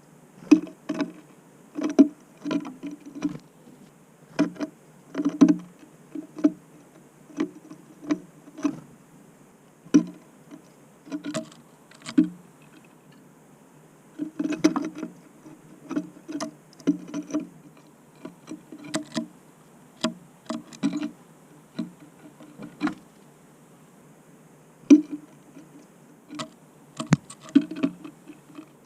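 Irregular taps and knocks, often several in quick succession with pauses between, of small birds landing on and pecking at an empty bird feeder.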